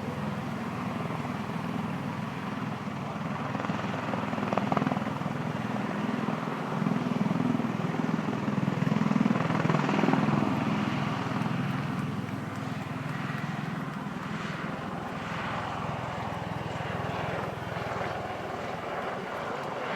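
V-22 Osprey tiltrotor hovering, its big proprotors and turbine engines making a steady, deep rotor drone. It swells louder around the middle, then eases back.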